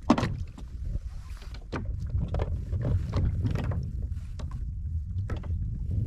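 Irregular knocks and clatters on a kayak, several sharp ones in quick succession, over a steady low rumble.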